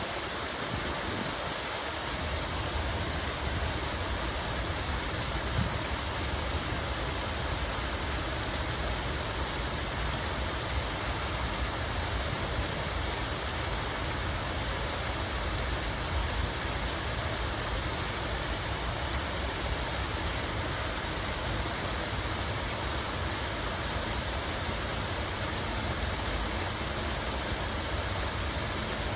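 Water running in a continuous, even rush, with no breaks or distinct splashes.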